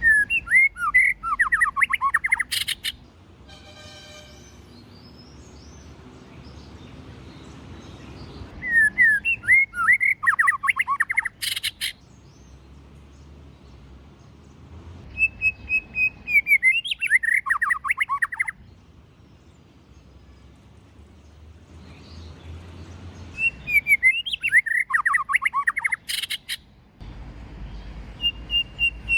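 White-rumped shama singing in four bursts of rapid, varied whistled phrases with high thin twitters, each burst about three seconds long and ending in a sharp click-like note, with pauses of several seconds between them.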